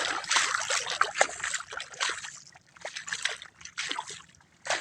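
Irregular sloshing and splashing of water, in many small splashes, softer in the second half.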